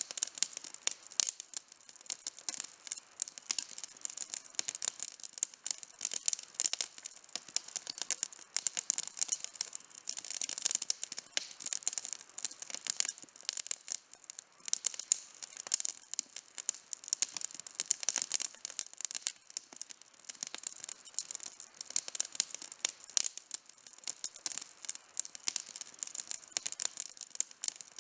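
Wood campfire burning with a steady stream of sharp crackles and small pops, densest in the high treble and with little low rumble.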